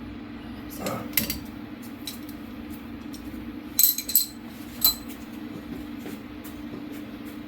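Sharp metal-on-metal clinks and knocks of steel parts and tools, two about a second in and a louder cluster around four to five seconds in, some ringing briefly. A steady low hum runs underneath.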